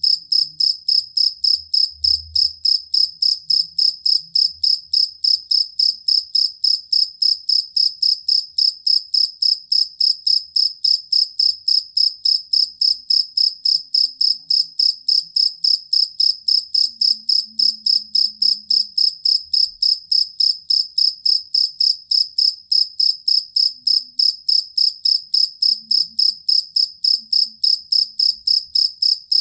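A two-spotted field cricket (jangkrik kalung) chirping steadily. Short, high, even pulses come at about three a second without a break.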